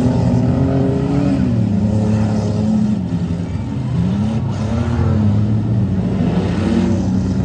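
Several demolition derby cars' engines running hard and revving, the pitch climbing and dropping again and again as the cars spin and charge on the dirt.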